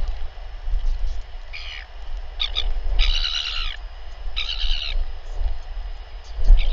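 Short bird calls, about five of them, a second or so apart, over a steady low rumble. The loudest and longest call comes about three seconds in and lasts well under a second.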